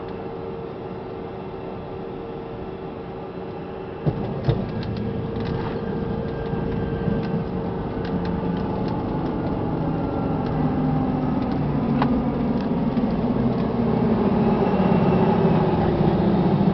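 Airliner cabin noise during landing: a sharp thump about four seconds in, then a rumble that grows steadily louder, as on touchdown and the landing roll.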